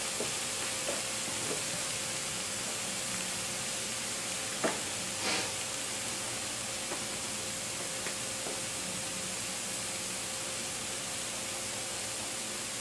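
Egg fu yung patties sizzling in oil in a cast-iron skillet: a steady frying hiss, with a couple of faint clicks about five seconds in.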